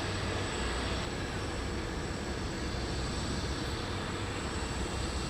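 Jet airliner engines running, a steady rumble and hiss with a thin, steady high whine.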